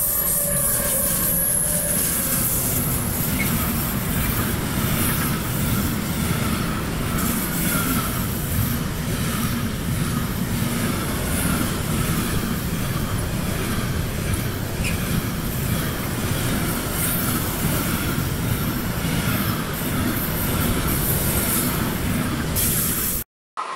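Electric freight train passing close by, hauling intermodal wagons with truck trailers and tank containers: a steady rumble of wheels on the rails with a thin, wavering squeal from the wheels. The sound cuts off abruptly near the end.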